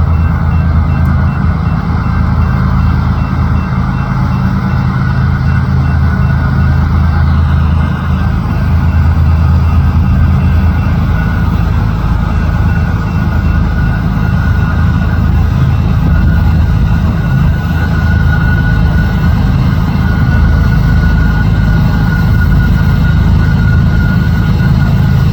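Loaded coal train's GE diesel locomotives running at close range, a loud, steady engine sound.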